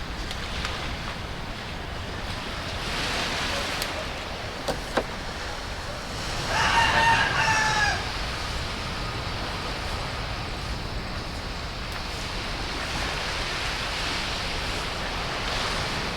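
A rooster crows once, about six and a half seconds in, a single call lasting about a second and a half, over a steady wash of surf. Two short sharp clicks come shortly before the crow.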